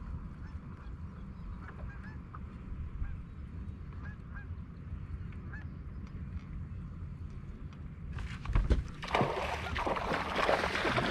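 A few short, faint honking bird calls, scattered over a steady low rumble; about eight seconds in, a much louder rushing noise takes over.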